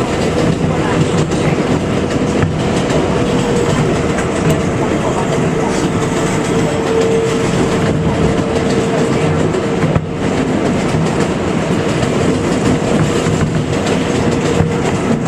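New York City Subway 7 express train running at speed between stations: a steady loud rumble of wheels on rail with a clickety-clack of rail joints and a steady whine running through it.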